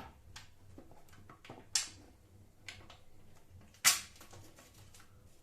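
A few sharp clicks and knocks of bolts and small hardware being handled and fitted into the router table's slots, the loudest about four seconds in.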